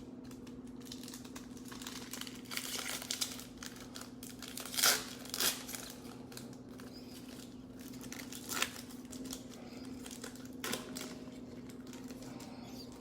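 Foil wrappers of Panini Mosaic football card packs crinkling and tearing as packs are opened, with cards handled, in several short rustling bursts over a steady low hum.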